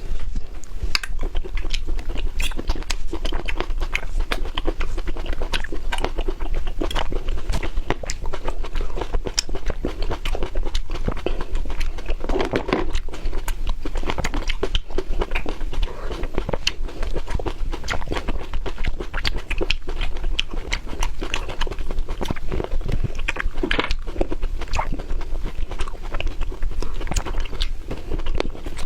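Close-miked eating sounds: a person chewing and biting food, with frequent sharp crunchy clicks and mouth noises running on without pause.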